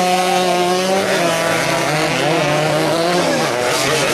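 Motorcycle engines running at a race, held at a steady pitch with the pitch wavering up and down about halfway through.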